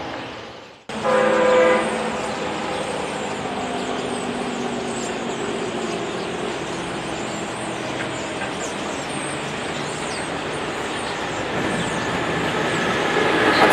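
A train horn blast about a second in that slowly dies away. Then the steady rumble of an approaching Amtrak Acela Express trainset, growing louder near the end.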